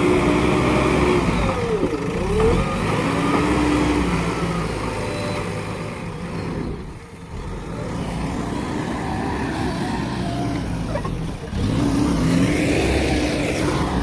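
JCB backhoe loader's diesel engine running under work, revving up and down so its pitch rises and falls repeatedly. It eases off briefly about halfway through, then picks up again.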